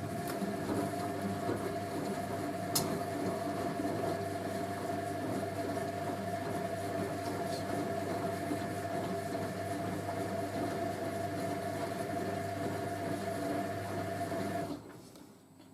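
Hoover A3060 Electronic 1100 washing machine's motor turning the drum in a gentle wash action: a steady hum with a whine that starts suddenly and stops shortly before the end. One sharp click about three seconds in.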